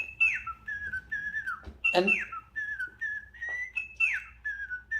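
Little Live Pets Lil' Bird electronic toy bird whistling a tune through its small speaker: a string of short whistled notes, several of them swooping downward, in a repeating pattern. A sharp click comes about two seconds in.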